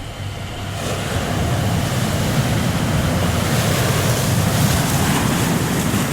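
Rushing sea surf, a steady wash of noise that swells about a second in and then holds.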